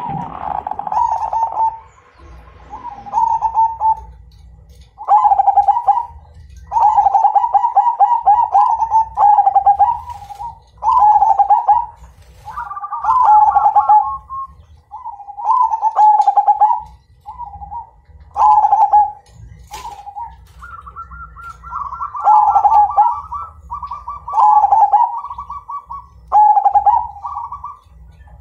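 Zebra dove (perkutut) of the Majapahit strain cooing: loud, long rolling coo phrases repeated about every one to two seconds, over a faint low rumble.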